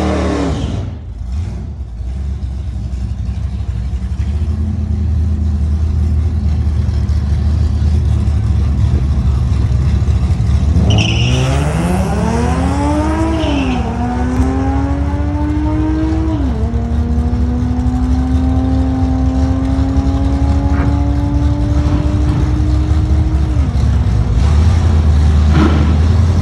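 2010 Toyota Prius at full throttle on a drag-strip pass, with a steady drone from the wind and the road. About eleven seconds in, the engine pitch rises quickly, then holds nearly steady and creeps slowly upward, dropping briefly three times along the way.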